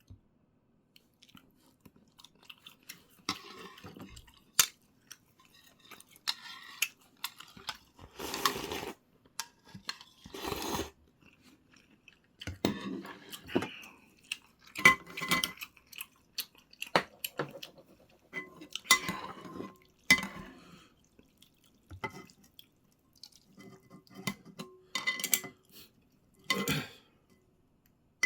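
Eating sounds: chewing, with utensils clinking against bowls and dishes at irregular moments, a few of the clinks ringing briefly.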